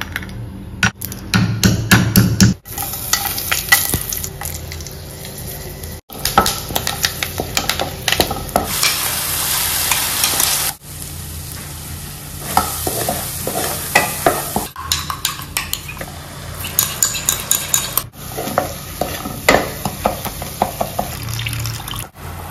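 Spices frying and sizzling in hot oil in a pot while a wooden spatula stirs and scrapes, with many sharp clicks of the spatula against the pot. The sound changes abruptly about six times.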